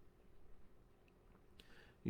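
Near silence: room tone in a pause of the reading.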